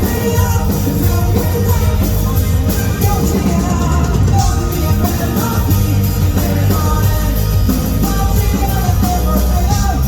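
Live rock band performance with electric guitars, bass and drums, a vocal melody over the top, heard through a fan's recording at a concert.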